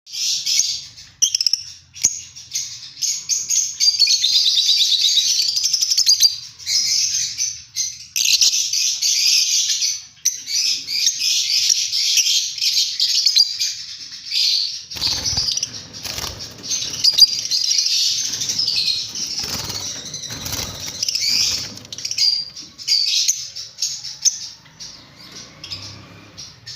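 Lovebirds chattering nonstop in shrill, rapid chirps. From about halfway through, bursts of lower rustling sounds join the chatter for several seconds.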